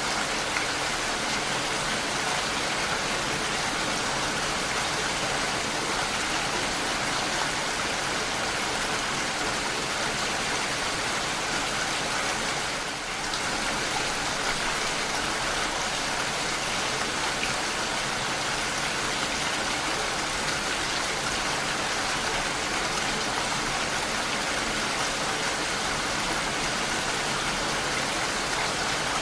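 Steady rain, an even hiss of falling drops that dips briefly a little before halfway through.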